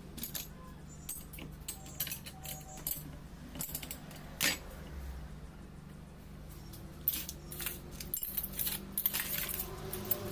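Small metal parts of a rotary diesel fuel pump clinking and tapping together as they are handled during assembly: scattered light metallic clicks, with a louder knock about four and a half seconds in and a busier run of clicks near the end, over a steady low hum.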